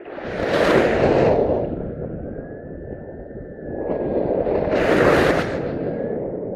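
Wind rushing over the microphone in two strong gusts, with a faint thin high tone holding in the lull between them.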